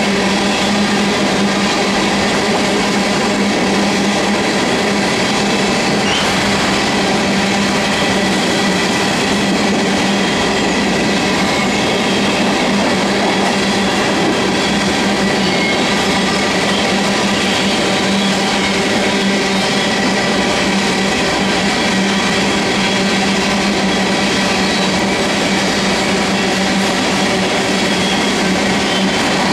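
Empty coal hopper cars rolling past steadily, their steel wheels on the rails making a continuous rumble and rattle with a steady hum underneath.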